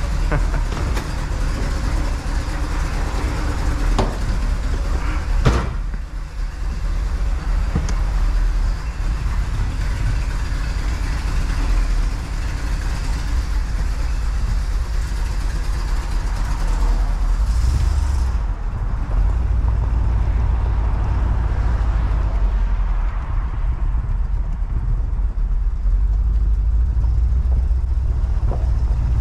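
Chevrolet Impala convertible's engine running with a steady low rumble as the car moves off slowly. A single knock comes about five seconds in.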